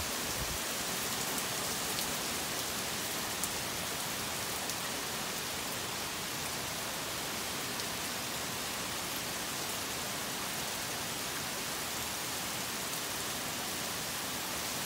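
Steady rain falling: an even hiss, with a few sharp drop ticks now and then.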